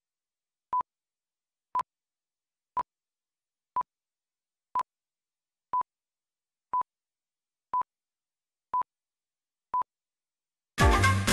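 Ten short electronic beeps at a single steady pitch, one each second, with silence between them; music starts just before the end.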